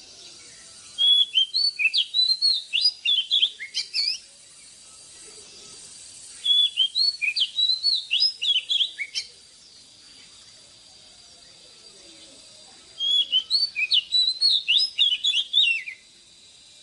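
Oriental magpie-robin singing: three phrases of rapid, varied whistled notes, each about three seconds long, with pauses between them.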